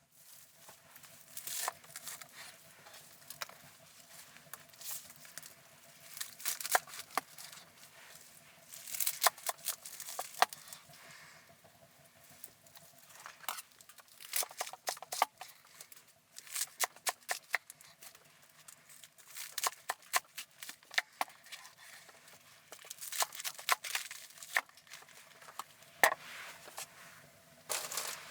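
Crinkling, rustling handling noise with many irregular sharp clicks and short tearing sounds.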